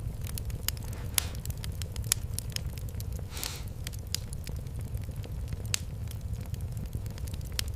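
Fireplace fire crackling: irregular sharp pops and snaps over a steady low rumble, with a brief hiss about three and a half seconds in.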